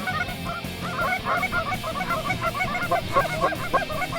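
A flock of geese calling: many short honks overlapping in a dense, continuous chorus.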